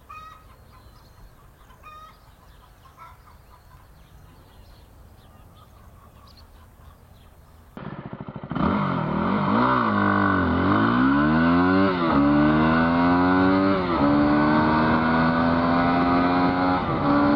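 Quiet outdoor background with faint bird chirps. About eight seconds in, a single-cylinder dual-sport motorcycle engine starts up loud, accelerating hard: the revs climb and drop back at each of about three upshifts, then hold high in a top gear.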